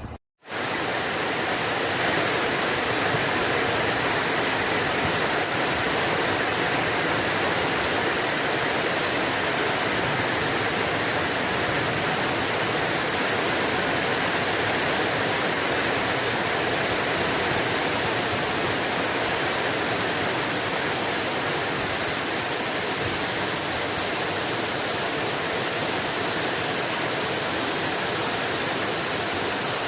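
Steady, even rushing noise of heavy water, a dense hiss spread across the whole range with no rhythm, starting abruptly after a brief silence about half a second in.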